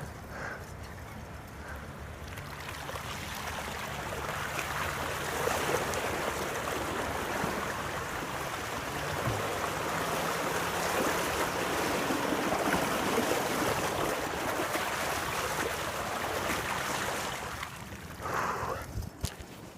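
Flood water of a swollen creek rushing and splashing, a steady wash that builds over the first few seconds and dies away near the end.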